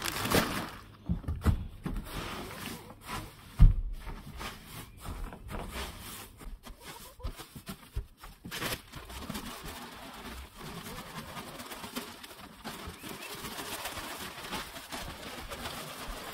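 Bedding being scattered and spread by hand across a chicken coop floor: irregular rustling and scraping with a single sharp thump about three and a half seconds in, settling to a softer steady rustle after about nine seconds. Soft bird calls sound in the background.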